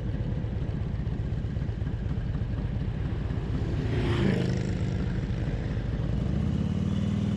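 Harley-Davidson Ultra Classic's V-twin engine idling at the roadside, with steady low firing pulses. About four seconds in there is a brief louder swell over it, and from about six seconds a steady low hum joins it.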